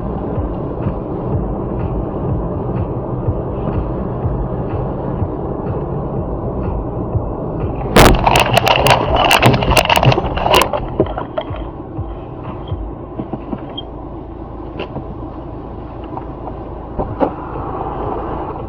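Steady vehicle running and road noise, then about eight seconds in a collision: a loud cluster of crashing, breaking and cracking impacts lasting about two and a half seconds, after which the running noise goes on more quietly.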